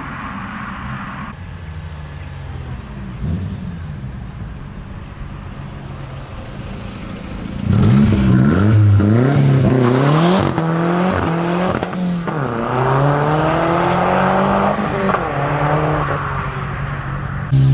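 A car engine running steadily, then about 8 seconds in a louder car engine revs and accelerates away, its pitch climbing and dropping several times as it goes through the gears.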